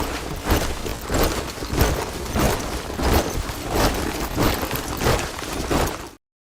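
A body of soldiers marching in boots, a heavy stamp of many feet about every two-thirds of a second, cutting off suddenly near the end.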